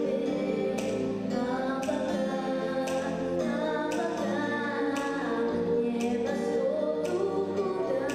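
Young voices singing a song over an instrumental accompaniment with a steady beat.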